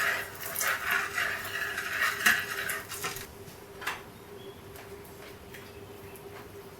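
Metal kitchenware clinking and scraping, a utensil knocking against a pan or dish, busy for about three seconds, then one more clink. A steady hum runs underneath.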